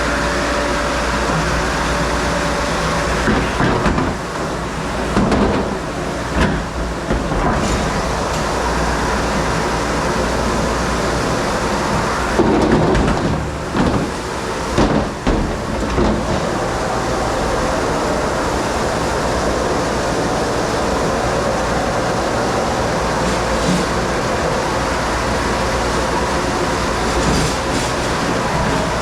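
Steady machine noise of a commercial dish room, with a run of irregular clatters and knocks between about 3 and 16 seconds in.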